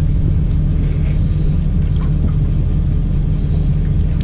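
Diesel truck engine idling with a steady low drone while running a regen (particulate-filter regeneration).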